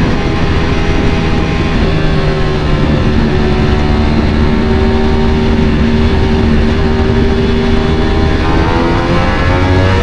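Ducati Panigale V4 engine running at steady riding revs, its pitch sagging a little through the middle and then rising from about eight seconds in as the throttle opens.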